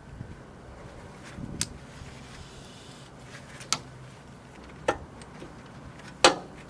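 Four sharp knocks or clinks, spaced irregularly, the last the loudest and ringing briefly.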